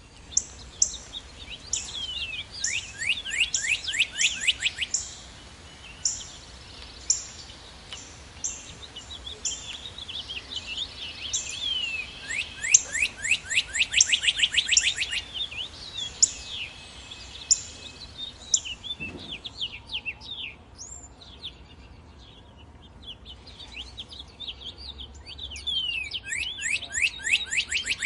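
Northern cardinal singing: three bouts of rapid down-slurred whistled notes that speed up into a quick trill, near the start, in the middle and at the end. Short, sharp high chip notes repeat between the bouts.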